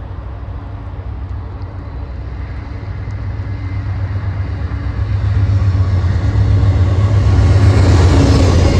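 A train approaching, its low rumble building steadily louder and peaking near the end.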